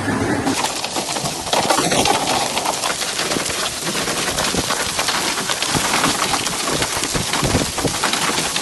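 Heavy rain pouring down: a dense, loud hiss of countless drops striking surfaces. It starts abruptly about half a second in.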